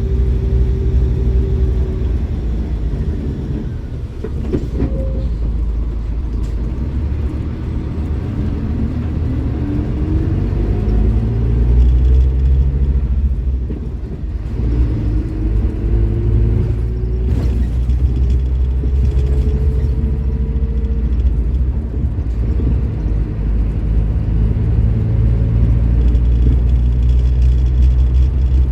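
Scania K310IB bus's diesel engine running under load, its pitch rising slowly as it speeds up; the sound drops back briefly about four seconds in and again about halfway through, then climbs again.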